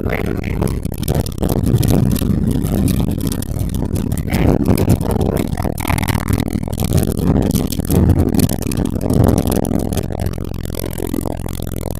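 Airbus A320 engines at takeoff thrust heard from inside the cabin: a loud, steady low rumble, with frequent rattles and knocks from the cabin.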